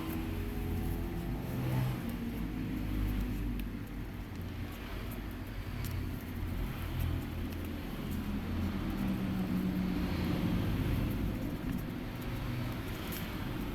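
A low, steady rumble of background noise with a few faint ticks.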